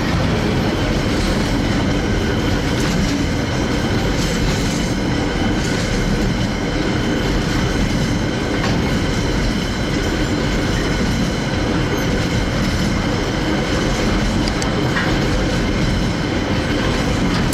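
A train running past on the rails, a steady rumble of wheels on track with occasional clacks.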